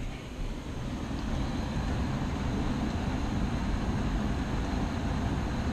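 HVAC air handler blower running on high fan speed, a steady rush of air with a low hum. It swells over the first second and then holds steady.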